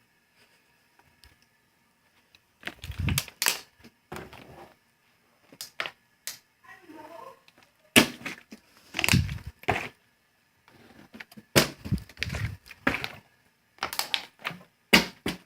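Plastic water bottles being knocked over and falling onto the dresser and floor: a string of irregular knocks and clatters, some in quick pairs.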